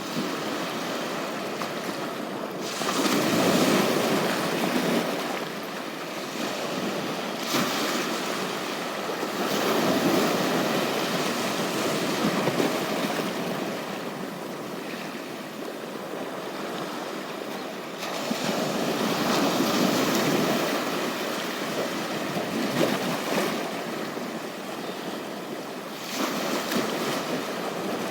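Sea waves breaking and washing up on a beach, the surf swelling and easing every several seconds.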